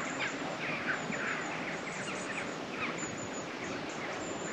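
Small birds chirping repeatedly in short, falling calls over a steady outdoor background hiss.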